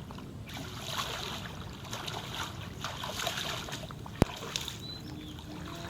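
Shallow floodwater splashing and trickling in uneven surges, with one sharp click about four seconds in.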